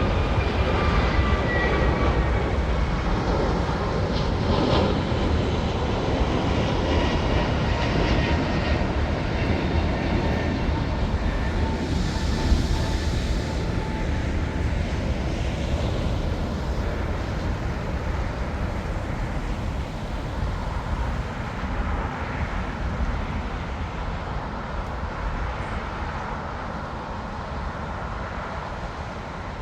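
Jet airliner engines rumbling as a plane passes, with a high engine whine that falls in pitch over the first few seconds. The rumble slowly fades away toward the end.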